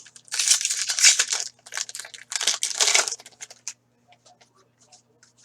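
Upper Deck hockey card pack wrapper being torn open and crinkled, in two bursts of crackling about a second long each, with a few smaller rustles after.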